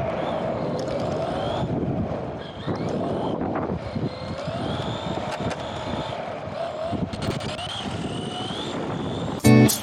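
Electric motor and drivetrain of a radio-controlled Tamiya TT-01E truck whining, the pitch rising and falling repeatedly with the throttle. Music comes in near the end.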